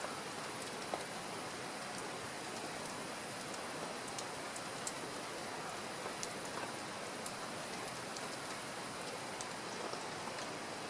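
Steady rain falling, a constant hiss with scattered sharp ticks of single drops striking a surface.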